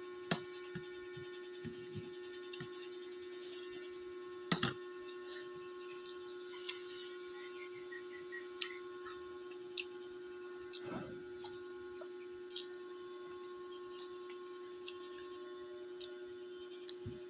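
Mouth and hand sounds of someone eating with their hands: scattered small clicks, smacks and chewing noises, a little louder about four and a half and eleven seconds in. A steady hum runs underneath.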